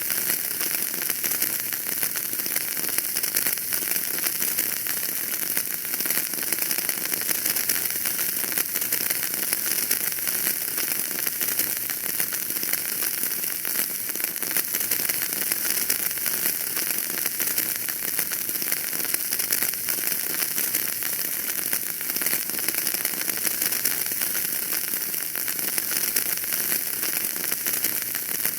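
Wood fire crackling in a fireplace: a dense, steady run of small pops and snaps over a hiss.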